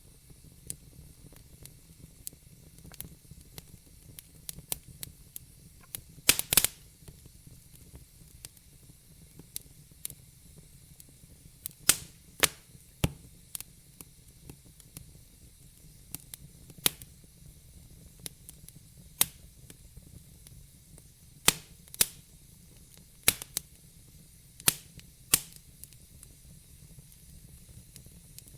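Fire crackling in a fireplace: sharp, irregular pops and snaps over a faint steady low rumble and hiss. The loudest burst of pops comes about six seconds in.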